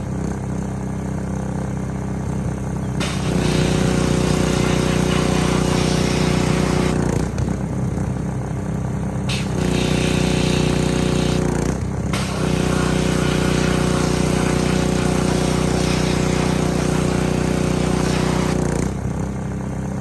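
Gas-engine pressure washer running steadily, its spray wand hissing in three long spells as the trigger is squeezed and released.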